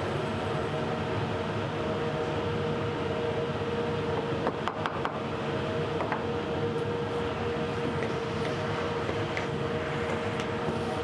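Makita router on a OneFinity CNC machine running steadily at high speed while cutting, with a steady high whine over a noisy rush. A few brief clicks come about halfway through.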